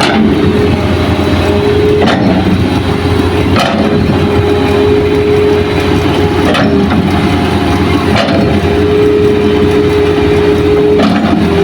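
Hitachi hydraulic excavator's diesel engine running steadily under load, with a steady hydraulic whine that drops out and returns every few seconds. Sharp knocks come about every two to three seconds as the machine works.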